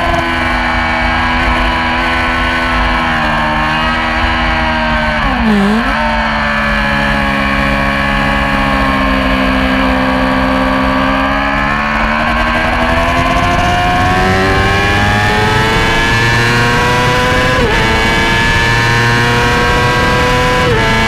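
Yamaha R6 600cc inline-four sport bike engine at racing revs. Its pitch dips sharply and recovers about five seconds in, sinks slowly as the bike slows, then climbs hard, with a sudden drop at each of two upshifts near the end.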